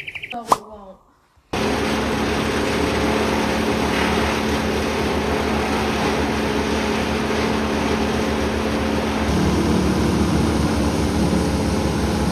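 Steady engine-like running noise with a constant low hum, cutting in abruptly about a second and a half in; a few clicks and a short buzz come just before.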